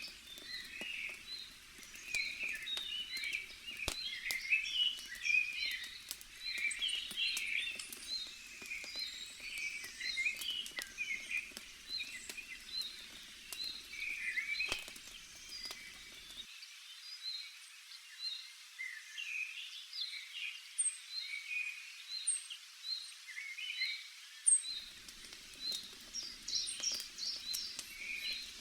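Small birds chirping and twittering busily throughout, with scattered sharp crackles from a campfire. A faint low rumble underneath drops out for several seconds past the middle and returns near the end.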